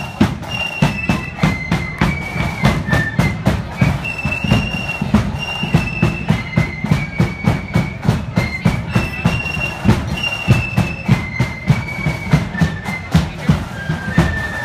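Marching flute band: high flutes play a melody in unison over steady bass drum and snare drum strokes, several a second.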